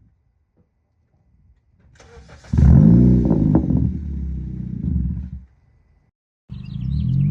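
The 2012 Honda Civic's 1.8-litre four-cylinder engine starting through a loud aftermarket exhaust: a brief crank about two seconds in, then it catches with a loud flare of revs that settles and cuts off abruptly. Near the end the engine is heard again, running steadily.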